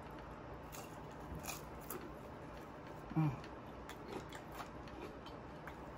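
Close-miked mouth sounds of a person chewing french fries: scattered soft clicks and wet smacks. About three seconds in comes a short hum that drops in pitch, the loudest sound.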